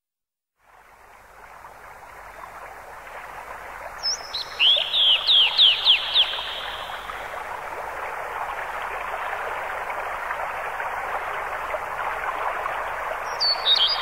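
A bird calls a quick run of about seven high notes, each sweeping downward, about four seconds in, and gives a shorter call near the end. Beneath it is a steady wash of outdoor background noise that fades in at the start.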